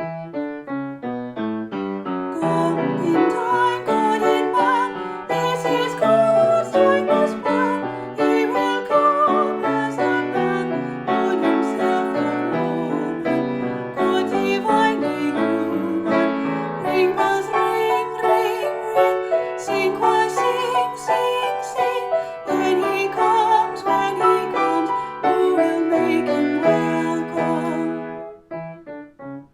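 Piano music that thins to a few quieter notes near the end.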